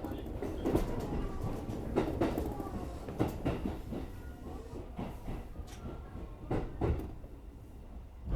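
Commuter electric train at a station platform: irregular knocks and clatter over a low rumble, slowly getting quieter.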